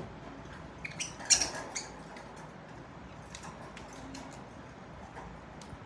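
Budgies nibbling cucumber: small scattered beak clicks and soft crunches, with a louder cluster of clicks a little over a second in.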